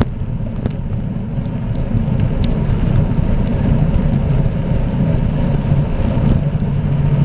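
Riding noise from a moving bicycle: a steady low rumble of wind and tyres on the path, with faint scattered ticks.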